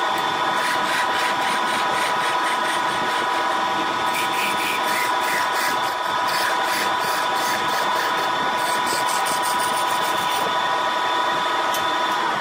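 Wood lathe running with a steady whine, with stretches of rapid, even ticking or rasping over it.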